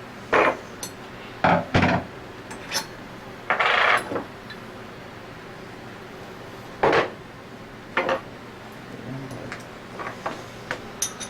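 Metal hand tools and parts clinking and knocking against each other and a work surface, in a string of separate sharp knocks a second or more apart, with a short rattling scrape a little before four seconds in.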